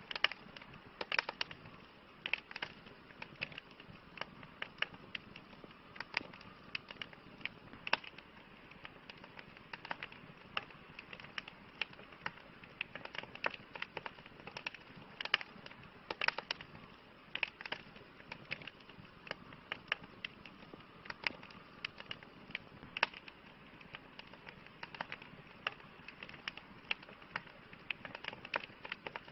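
Wood fire crackling: irregular sharp pops and snaps, several a second, over a steady soft hiss of burning wood.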